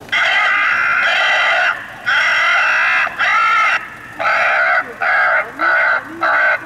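Bird control vehicle's loudspeaker broadcasting harsh recorded bird distress calls to scare birds off the airfield. Two long, loud calls come first, then a call that bends in pitch, then shorter calls repeated about every 0.6 seconds.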